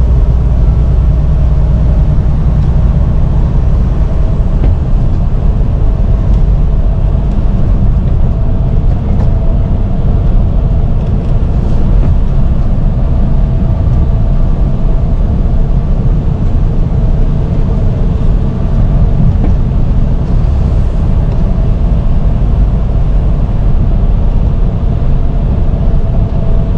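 Semi-truck running down the road, heard from inside the cab: a steady, loud low rumble of engine and road noise with a faint steady whine above it.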